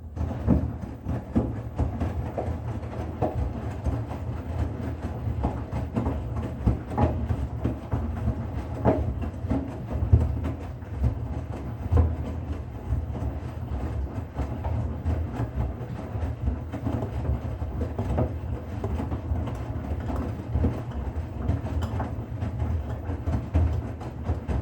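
Bosch Serie 6 washing machine running, with a steady low rumble and irregular knocks and clicks from the turning drum.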